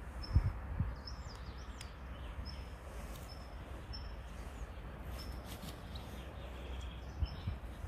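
A small bird repeating a short, high, thin call every half second or so, over a steady low rumble. A few soft thumps come near the start and again near the end.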